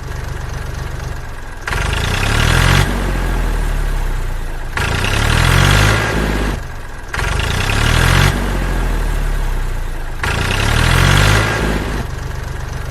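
Tractor engine running and revving in repeated surges about every two to three seconds, the pitch gliding up and down with each surge, as of a tractor straining while stuck in mud.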